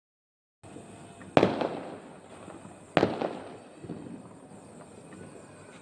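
Fireworks going off: two sharp bangs about a second and a half apart, each trailing off over about a second.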